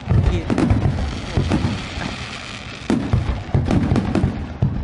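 Aerial fireworks shells bursting in a rapid barrage of deep booms and many quick sharp bangs, with a fresh volley about three seconds in.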